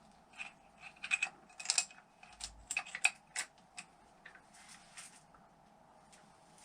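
Light metal clicks and clinks of engine parts being handled and fitted, a dozen or so sharp taps over the first few seconds, then a short scrape, then quiet room background.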